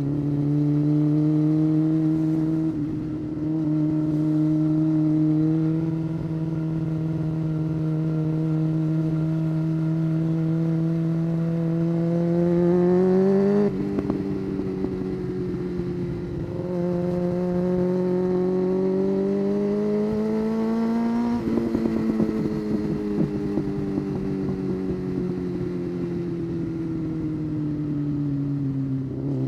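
Honda CBR600 F4 inline-four motorcycle engine pulling under way. Its pitch climbs slowly and drops sharply at an upshift about halfway through. It climbs again to a second sharp drop at an upshift about two-thirds in, then sinks gradually as the throttle is eased off.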